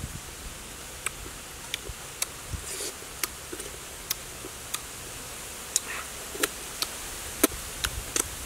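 Close-up eating sounds: wet mouth clicks and lip smacks from chewing dragon fruit, a dozen or so irregular sharp clicks over a steady hiss.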